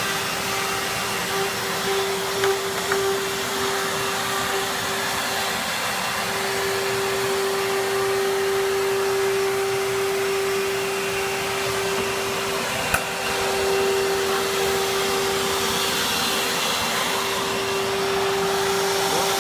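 Vacuum cleaner motor running steadily, with a constant whine over the rush of air and one sharp tick about 13 seconds in.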